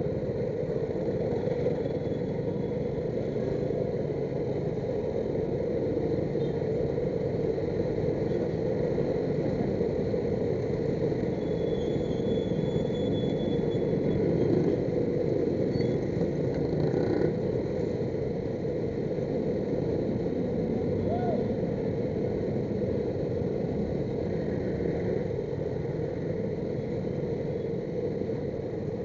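Steady engine and road noise of a motorcycle riding in slow, heavy traffic.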